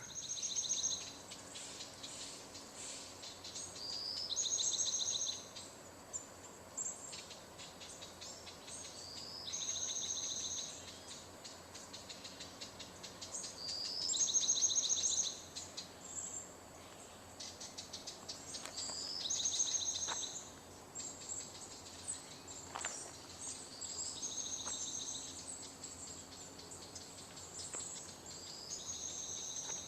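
A songbird repeating the same short, trilled song about every five seconds, seven times, with faint ticking chirps between the songs.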